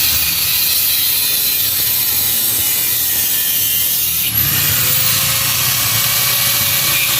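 Steady mechanical tool noise from work on a motorcycle's exhaust silencer, ratchet-like and even, with a brief break about four seconds in.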